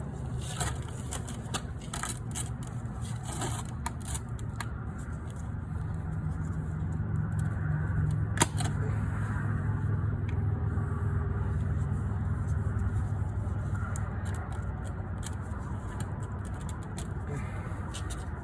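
Scattered sharp plastic clicks and scrapes as a tight cap on an engine oil bottle is worked open by hand, over a steady low rumble of handling noise that swells in the middle.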